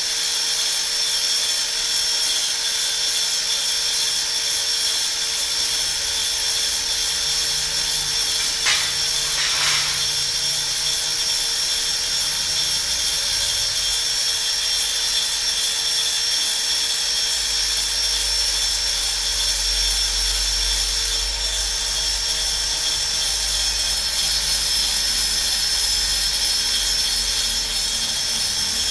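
Fishing lure duplicator running, its high-speed cutter motor giving a steady high whine while carving a copy of a lure, with a brief louder scrape about nine seconds in.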